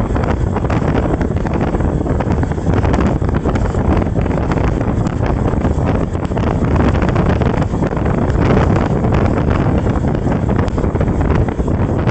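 Steady, loud wind rushing over a moving microphone, a dense low rumble with no clear engine tone.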